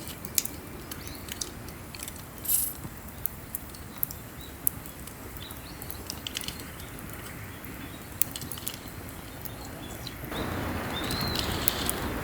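Campfire crackling, with scattered sharp pops and a short hiss about two and a half seconds in, while small birds chirp now and then. Near the end a steady rushing noise grows louder.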